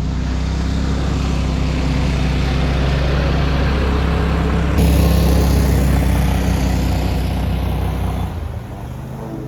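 Go-Devil surface drive mud motor running steadily at speed on a johnboat. About eight seconds in, the engine note drops lower and quieter.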